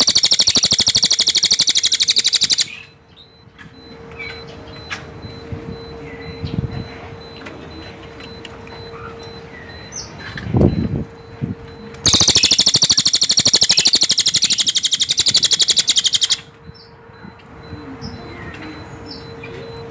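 Cililin (small minivet) singing: two loud, high-pitched, very rapid trills of about four seconds each, one at the start and another from about twelve seconds in, with faint chirps between them. A brief low rumble about ten seconds in.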